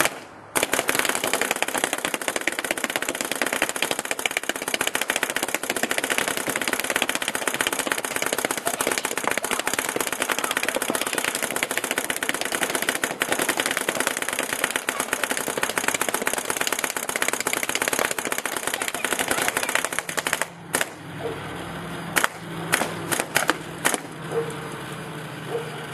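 Paintball marker firing in a long rapid string of shots for about twenty seconds, then a few separate shots near the end. It keeps firing through a broken paintball inside it.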